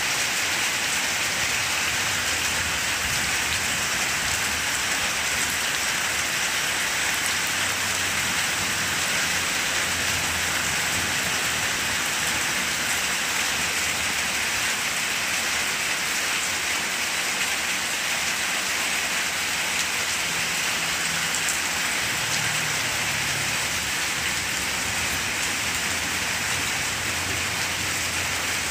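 Steady rain falling on the broad leaves of banana plants, an even hiss.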